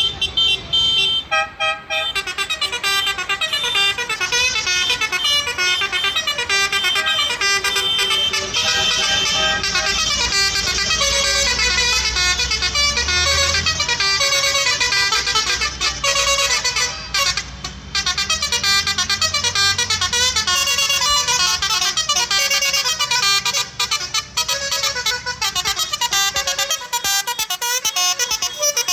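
Vehicle horns sounding over and over at many different pitches, over the low running of tractor engines; the engine rumble fades out near the end.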